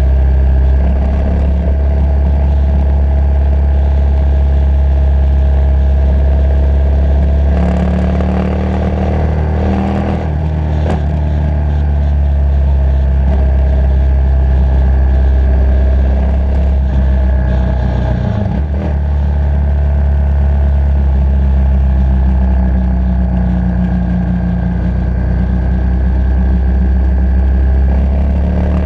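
Motorcycle engine running steadily under way, a loud low drone, with a brief dip in engine pitch partway through.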